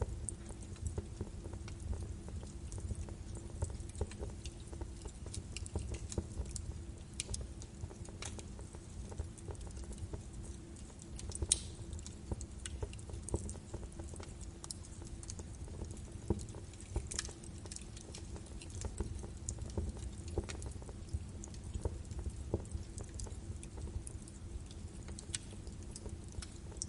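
Birch wood fire crackling in a fireplace: irregular pops and snaps over a low, steady rumble of the flames, with one louder snap about eleven seconds in.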